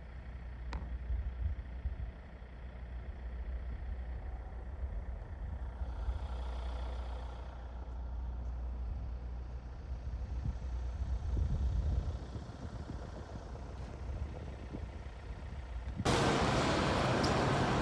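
A vehicle running, with a steady low rumble. About sixteen seconds in, a much louder rushing noise starts suddenly.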